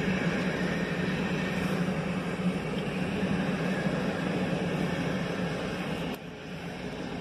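Train rolling past on the tracks: a steady rushing noise with a constant low hum under it, dropping abruptly about six seconds in.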